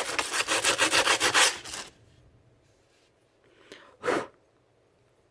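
Sandpaper rubbed back and forth over a piece of a Goatguns SVD Dragunov model in quick, even strokes, about five or six a second, stopping about two seconds in. One more short scrape about four seconds in.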